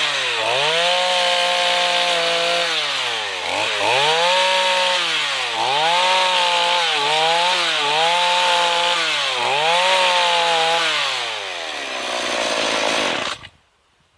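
Chainsaw fitted with a mini power-gouge carving attachment, running at high revs. Its engine speed drops and recovers about six times as it is loaded against the wood and eased off, over a steady cutting hiss. About 12 seconds in it winds down, and it stops abruptly near the end.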